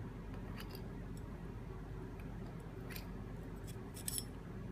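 A few light metallic clicks and taps of small gearbox parts being handled, as Hydramatic clutch return springs are set in place, over a steady low hum. There is a click about half a second in, another near three seconds, and a quick pair just after four seconds.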